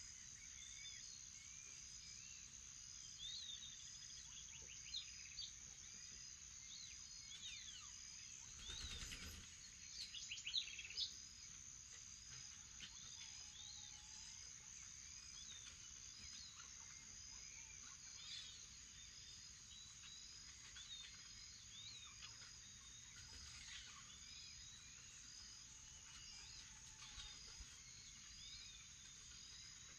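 Faint morning outdoor ambience: a steady high insect drone with an evenly repeating chirp, and scattered bird calls over it. About nine seconds in there is a brief louder noise, with a few sharper calls just after it.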